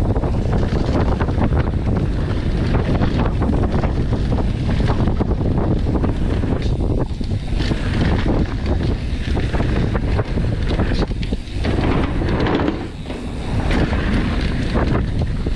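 Wind buffeting the microphone of a camera on a mountain bike speeding downhill, over a steady rumble of tyres on dirt and the bike clattering over rough ground.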